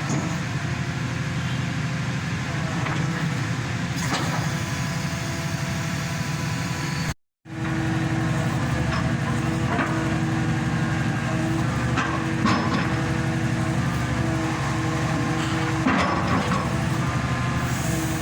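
Hydraulic static pile driver running steadily, its power unit and hydraulic pumps humming at a constant pitch, with a few sharp metal knocks.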